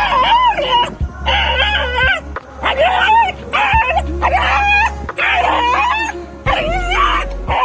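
Dog stuck in mud whining in distress: a string of high-pitched cries that waver up and down, one after another.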